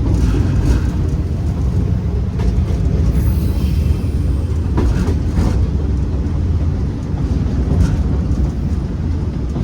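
Class 47 diesel locomotive heard from the cab while freewheeling downhill with power off: a steady low rumble with a few short knocks from the wheels and track.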